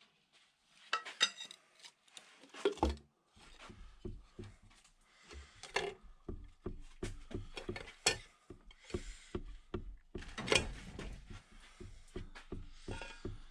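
Loose metal engine parts and hand tools clinking, tapping and knocking as they are handled and set down: an irregular string of light clicks with a few sharper knocks.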